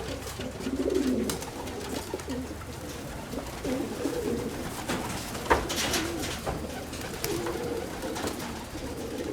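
Domestic pigeons cooing, many low overlapping coos, with a sharp knock a little past halfway.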